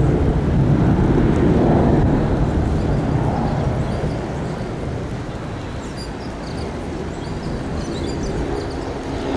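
Airliner jet engine noise, a broad rumble that is loudest in the first two seconds and slowly fades over the next few.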